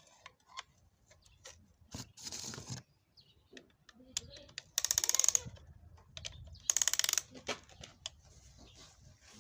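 Hand tools working on an engine: scattered metal clicks and clinks, with two short runs of fast ratchet-wrench clicking, about 5 and 7 seconds in.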